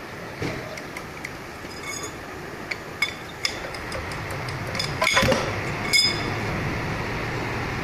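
Metal tools clinking and striking against steel truck suspension parts during a torque rod bushing job, several sharp hits that ring briefly. The loudest hits come about 5 and 6 s in. A steady low hum under them grows louder about halfway through.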